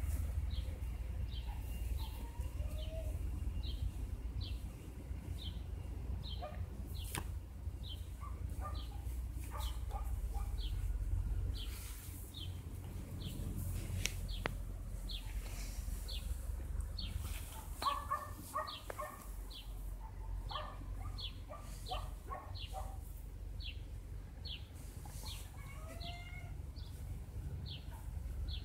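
A small songbird repeating a short, high, falling note about twice a second, with other bird calls joining in briefly around the middle, over a steady low rumble.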